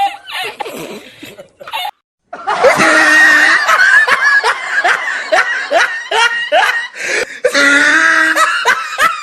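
Loud laughter with overlapping voices, starting up strongly after a short break in the sound about two seconds in.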